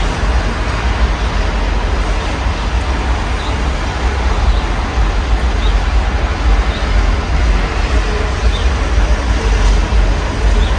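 Steady rain heard through an open window, with a constant low rumble of city street traffic underneath.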